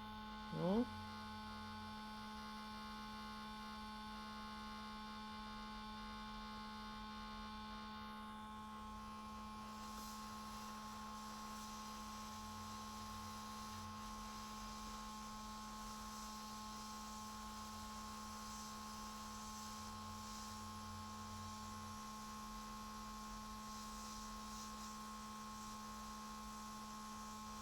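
Steady low electrical hum with a fainter, higher steady tone above it, from the powered bench equipment on a hot-air soldering rework.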